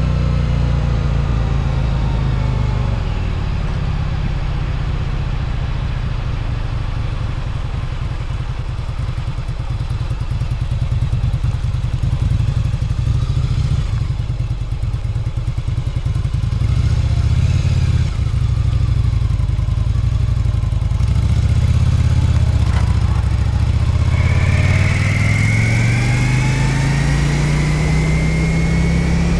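Yamaha Virago 1100's V-twin engine running on the move, its pitch shifting with speed; over the last few seconds the pitch climbs steadily as the bike accelerates.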